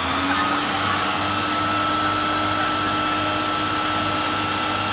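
A small electric motor appliance running steadily, a whirring hum and whine over a rushing hiss of air. It switches on suddenly and holds an even level.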